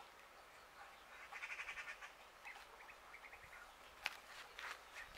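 Faint bird chattering in a quick run of pulses about a second and a half in, followed by a few light clicks and a single sharp tap about four seconds in.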